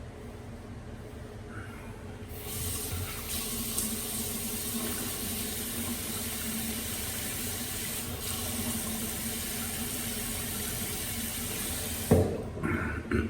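Sink tap running as a steady water hiss, turned on a couple of seconds in and shut off near the end, followed by a few loud knocks.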